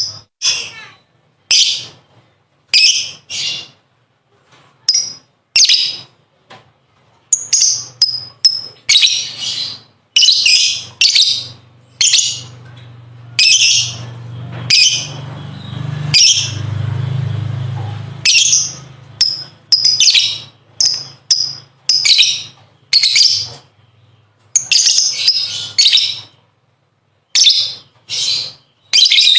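Lovebird calling in rapid runs of short, sharp, high-pitched chirps with brief pauses between the runs. A low hum runs underneath through the middle of the stretch.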